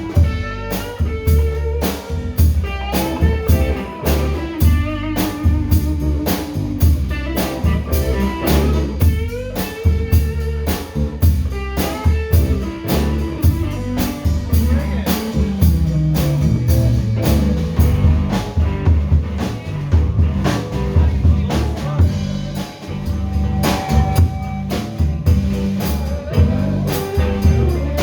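Live band playing an instrumental break: a guitar carries the melody over bass and a drum kit keeping a steady beat.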